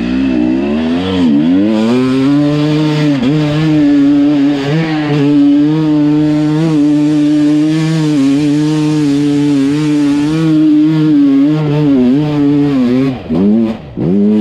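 Two-stroke enduro dirt bike engine held at high, fairly steady revs, with brief dips in pitch as the throttle is eased off. Near the end it breaks into a few short revs with quieter gaps between them.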